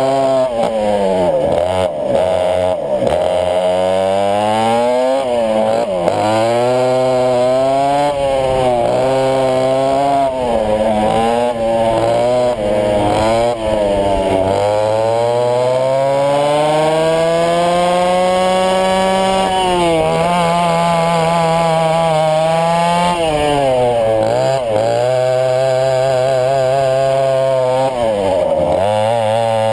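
Twin West Bend 820 two-stroke kart engines running hard, their pitch rising and falling again and again as the throttle is lifted and reapplied. About halfway through comes one long climb in pitch lasting about five seconds, which then eases back.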